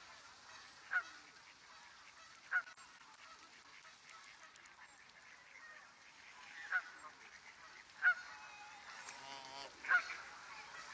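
Birds calling: five short calls at irregular intervals, with one longer, drawn-out call just after nine seconds, over a faint steady hiss.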